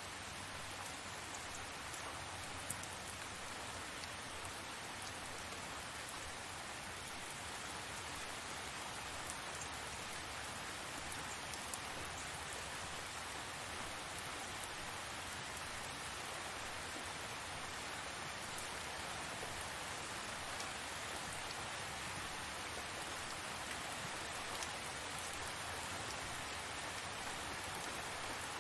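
Steady rain falling and pattering on surfaces, an even hiss with scattered drop clicks.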